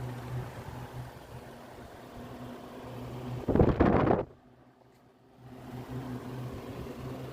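Electric fan's motor running with a steady low hum. About three and a half seconds in, a brief loud rush of air noise is followed by about a second of near silence before the hum returns.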